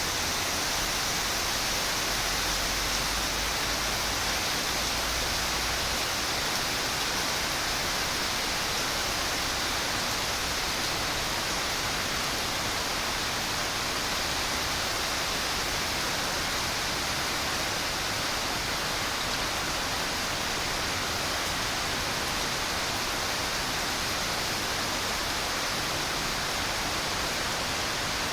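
Steady rain falling, an even hiss with no letup, with a faint low rumble in the first few seconds.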